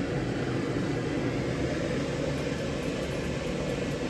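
Steady low hum and rumble of kitchen background noise, with a few faint light clicks in the second half.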